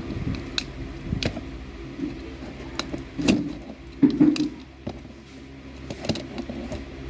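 Scattered sharp clicks and knocks, with a louder clatter about three and four seconds in, over a steady low hum.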